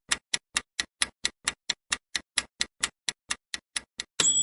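Quiz countdown timer sound effect: fast, even clock ticking, about four and a half ticks a second, ending near the end in a bright bell ding as time runs out.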